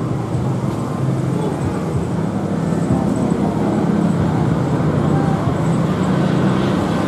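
Steady low rumble of engines, the continuous noise of jet aircraft and traffic at an airport.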